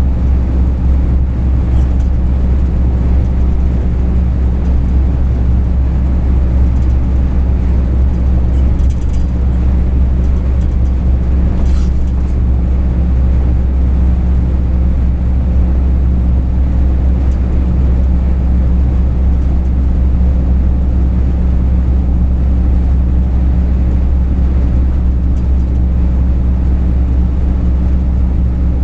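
Steady low drone of a truck's engine and road noise heard from inside the cab while driving, with a few faint ticks.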